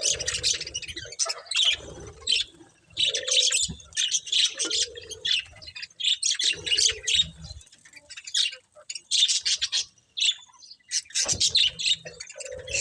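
Budgerigars chirping and chattering in quick high bouts with short pauses between them.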